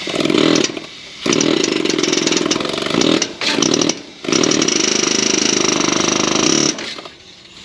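A power tool run in four bursts, the longest about two and a half seconds, with short pauses between them.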